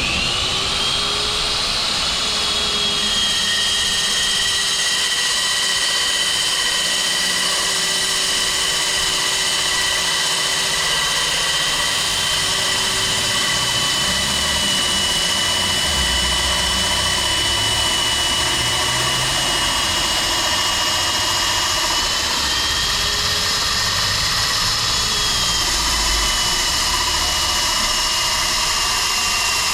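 Electric core drill boring a 110 mm hole through concrete, its motor whining steadily under load. About two-thirds of the way through the whine rises briefly in pitch and then settles back.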